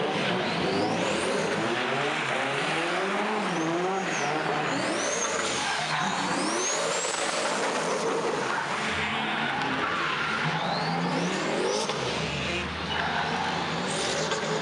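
Turbocharged Chevrolet LS V8 in a Nissan Silvia S14 being driven hard in a drift, its revs swinging up and down over and over, with tyres squealing and high whistles rising and falling above the engine.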